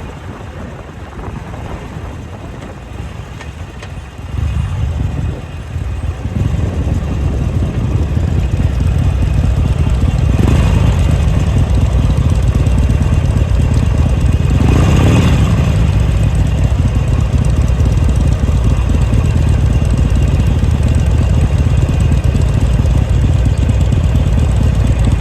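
Motorcycle engine running, getting louder about four seconds in and then holding a steady low rumble, with two brief swells of noise around the middle.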